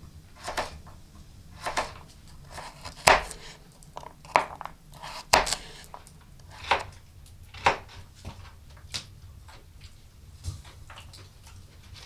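Light clinks and knocks of kitchenware being handled, about one a second, in a small room.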